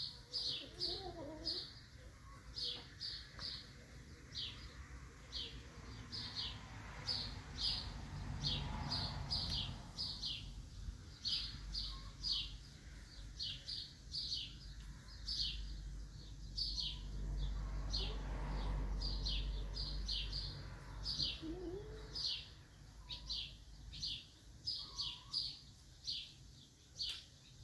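A small bird chirping over and over, short high chirps about twice a second, with a low rumble swelling and fading twice in the background.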